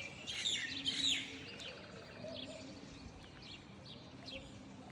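Songbirds chirping, with a few loud, quickly falling calls in the first second or so, then fainter scattered chirps, over a faint low hum.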